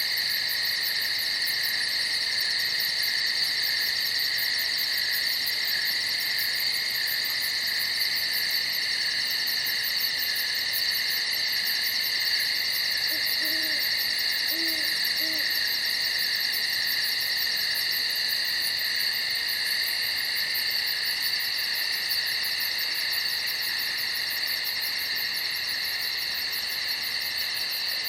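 A steady night chorus of crickets chirping, with a high, fast pulsing trill over it. About halfway through there are three faint, short, low calls.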